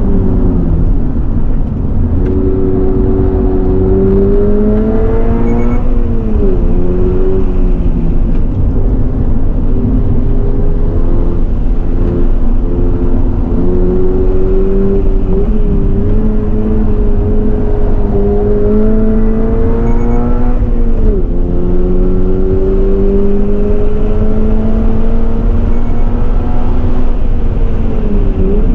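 2023 Subaru BRZ's 2.4-litre flat-four engine heard from inside the cabin under hard acceleration. The revs climb steadily and drop sharply at each upshift, about six seconds in, again about 21 seconds in and once more near the end. A steady low rumble of road and wind noise runs underneath.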